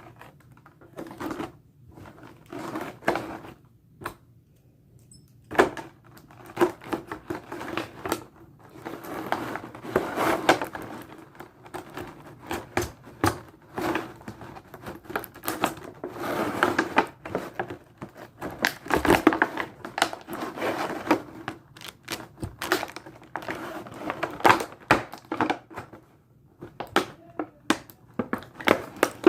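A boxed prize figure being unpacked by hand: irregular clicks, taps and crinkling of cardboard and plastic packaging, busiest in the middle, with brief lulls near the start and near the end.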